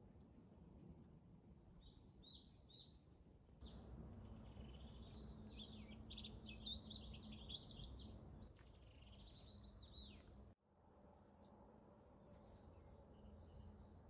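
Wild birds singing in woodland: a few quick high chirps, then a long warbling phrase of varied notes, then another short phrase, over a faint steady outdoor background. The sound drops out suddenly for a moment about ten and a half seconds in.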